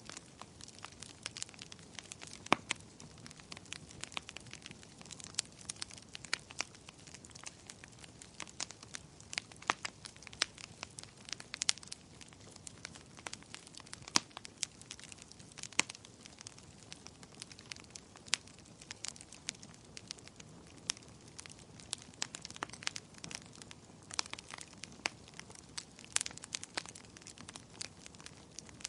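Fire in a fireplace crackling: irregular sharp pops and snaps, several a second at times, over a soft steady hiss.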